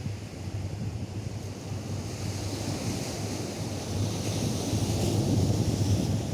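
Atlantic surf breaking and washing up a sandy beach, the wash swelling louder about halfway through, with wind buffeting the microphone as a low rumble underneath.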